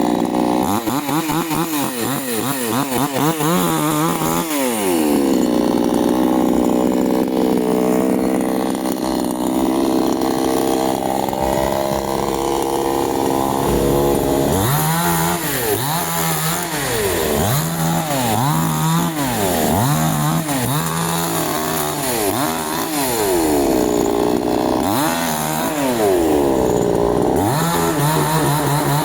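Canfly 5800 two-stroke chainsaw cutting wood, its engine running at high revs. Through the middle it holds a steady high pitch. Then, over most of the second half, the pitch dips and recovers again and again, about once a second.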